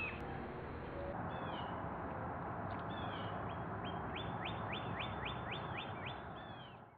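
A bird calling over a steady background hiss: a short high call about a second in, then from about three seconds a quick series of short, rising high notes, about three a second. The sound fades out at the very end.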